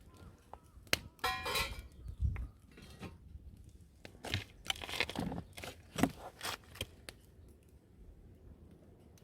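Irregular crinkling, crunching and clicking handling noises, with a short pitched sound about a second and a half in, then quieter for the last two seconds.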